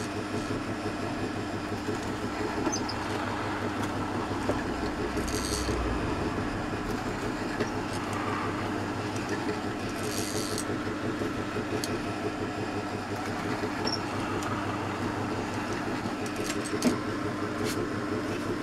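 Electric drill running steadily while drilling four holes all the way through a jig, the motor humming at an even pitch with a few light clicks.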